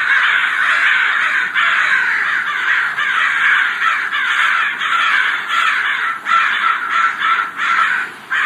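A dense chorus of many birds calling at once, a loud continuous chatter of overlapping calls that dips briefly near the end.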